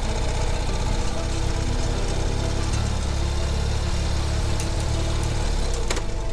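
Ural sidecar motorcycle's flat-twin engine running at low speed, its pitch wavering slightly, with a few sharp clicks near the end.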